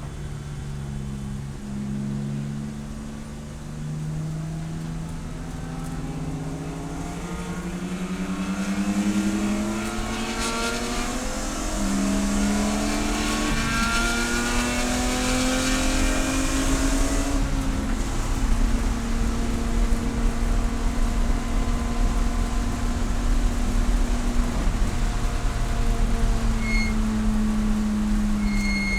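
Race car engine pulling hard, its pitch climbing steadily for several seconds, stepping up about twelve seconds in and then holding at high revs, easing slightly near the end. A rushing hiss rises over the engine in the middle.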